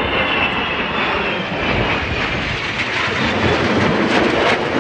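Aircraft engines running loudly and steadily, with a high whine that fades over the first two seconds.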